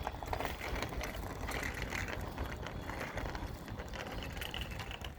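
A child's bicycle with training wheels rolling along a path, with a steady run of quick mechanical ticks from the wheels and drivetrain.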